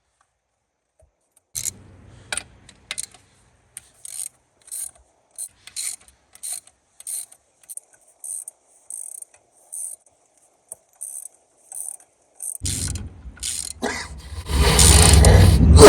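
Hand ratchet wrench clicking in steady strokes, a little under two clicks a second, as a bolt or nut on the sterndrive is worked loose. Near the end a much louder, continuous mechanical noise takes over.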